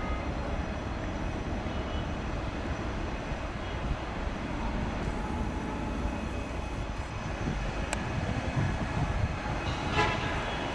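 Trenitalia Jazz ETR 324 electric regional train running slowly along the platform, a steady low rumble. A sharp click comes about eight seconds in and a short clatter near the end.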